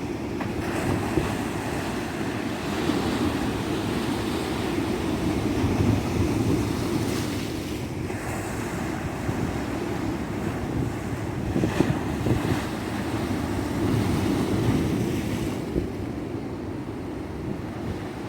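Ocean surf washing onto a beach: a continuous rushing of breaking waves that swells and eases every few seconds.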